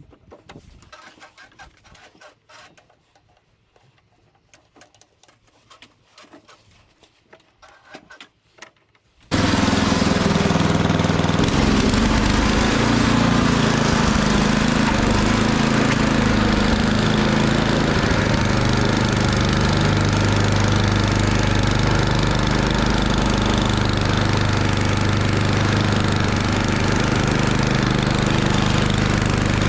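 Faint scattered crunches and clicks for about nine seconds. Then the 8 hp engine of a Murray Ultra 8/27 two-stage snowblower comes in abruptly, loud and running steadily.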